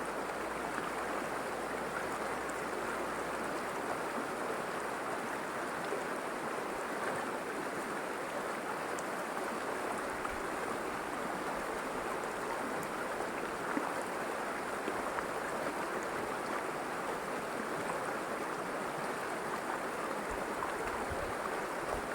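River water rushing and babbling over rocks in a steady, unbroken wash.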